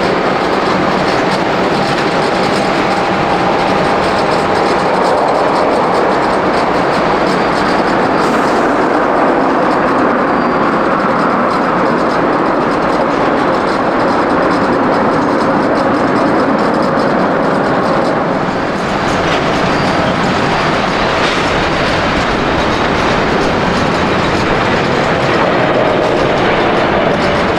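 Jet airliner engines running at close range: a loud, steady roar with faint whining tones riding on it, dipping slightly about two-thirds of the way through.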